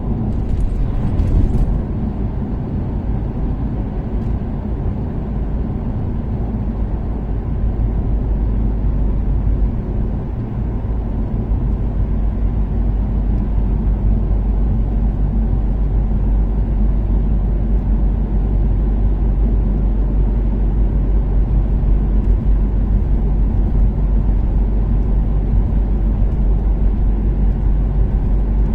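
Toyota Caldina's 3S-GTE turbocharged four-cylinder engine running at a steady cruise, with a constant low rumble of engine and road noise. A short hiss sounds about a second in.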